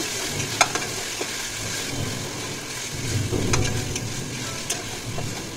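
Onions and ginger-garlic paste sizzling in oil in a pressure cooker, with a metal spoon stirring and scraping against the pot and giving a few short clicks.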